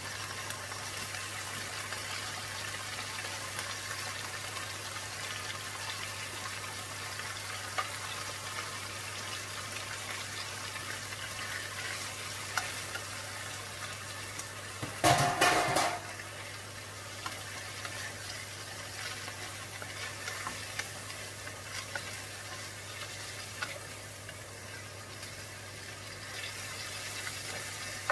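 Pork liver and red onion frying in a non-stick pan: a steady sizzle with a wooden spatula stirring and scraping, and a short, loud clatter about halfway through.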